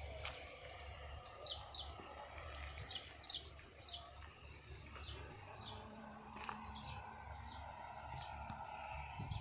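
Small birds chirping, many short high notes repeating again and again, faint over a steady low rumble.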